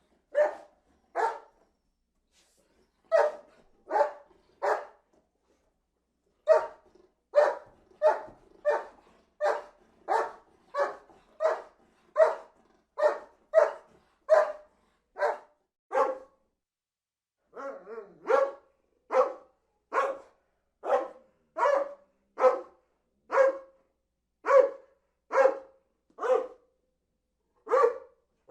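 A dog barking repeatedly in short, sharp barks. A few barks come first, then a pause of about two seconds, then a steady run at a little over one bark a second, broken by one short gap near the middle.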